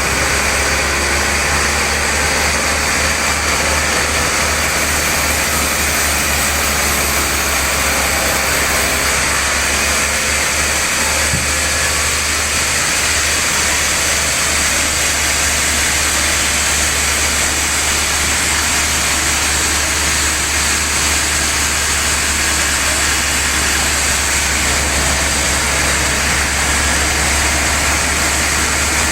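Sawmill machinery running steadily, a constant low machine drone under a wide hiss, while a large trembesi log is sawn into boards.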